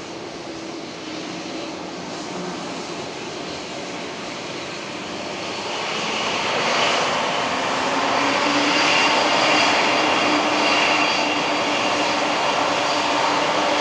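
Jet airliner's engines running with a steady hum and high whine, growing louder about six seconds in.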